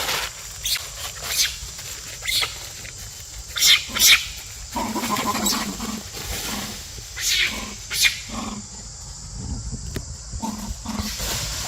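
Macaque calling: a string of short, high squeals, with a lower, longer call about five seconds in.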